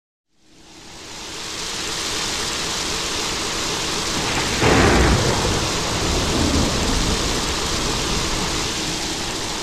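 Rain sound effect: a steady hiss of rain that fades in over the first couple of seconds, with a sudden clap of thunder about halfway through that rumbles on for about two seconds.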